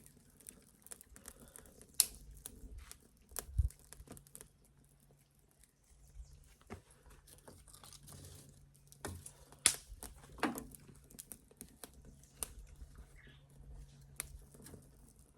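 Small fire catching in dry leaves and thin twigs, giving sparse crackles and a few sharper snaps.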